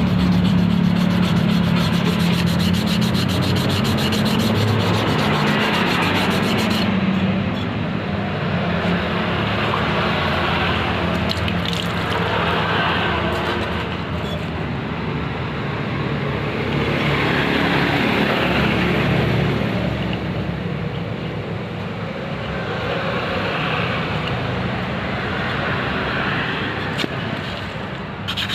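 Abrasive rubbing, like sanding or filing by hand, in slow strokes that swell and fade every couple of seconds. A low steady hum runs underneath for the first several seconds.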